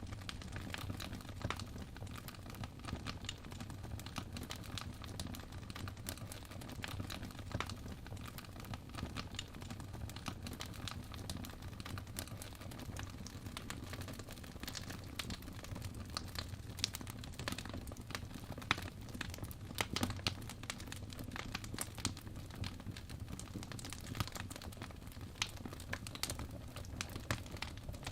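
Fireplace fire crackling: irregular pops and snaps, a few louder ones after the middle, over a steady low rumble.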